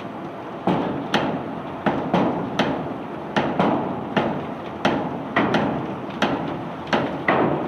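Cobblestones being unloaded from a barge, knocking and clattering against each other: an irregular string of sharp knocks, about two a second, each with a short rattling tail.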